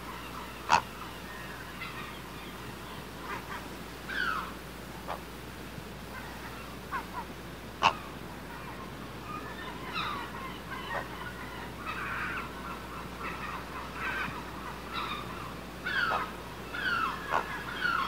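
Birds calling: many short chirps and squeaks that fall in pitch, coming more often in the second half, with two sharp clicks, about a second in and near eight seconds.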